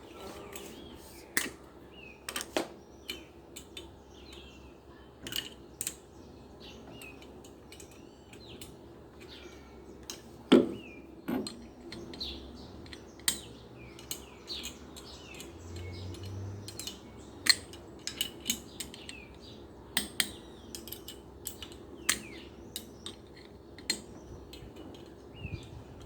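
Irregular sharp clicks and clinks of metal parts and tools being handled while a washing machine motor is put together, with birds chirping in the background.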